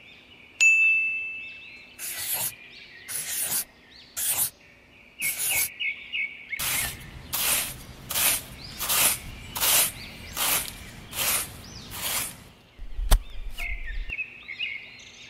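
Birds chirping throughout, with a run of short noisy strokes: a few irregular ones at first, then a steady series of about one every 0.6 seconds for several seconds. A single chime rings about half a second in, and a sharp click comes near the end.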